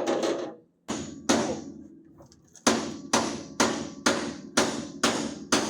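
Repeated hammer blows on metal: a few irregular strikes, then a steady run of about two strikes a second, each ringing briefly.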